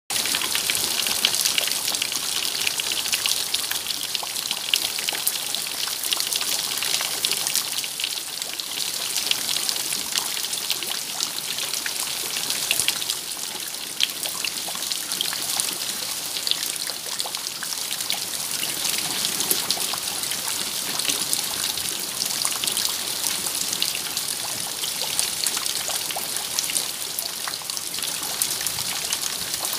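Steady rain, a continuous hiss with a dense patter of individual drops.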